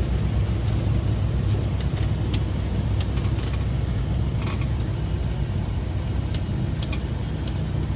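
Cessna 172's piston engine running steadily, a low, even drone with a few faint clicks over it.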